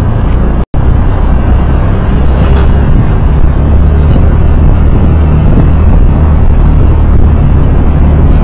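Loud steady low rumble of a vehicle on the move, picked up by a dashcam microphone, with a brief dropout to silence under a second in.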